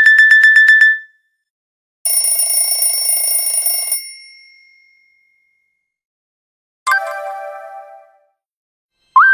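Nokia 6110 mobile phone ringtones played one after another, each short and separated by silence. A fast beeping trill stops about a second in, a held electronic chord fades out in the middle, a brief struck tone sounds later, and a new tone begins near the end.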